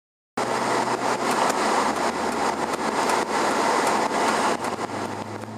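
Silence that cuts abruptly, about a third of a second in, to steady vehicle noise: a car's engine and road noise with a low steady hum and scattered clicks.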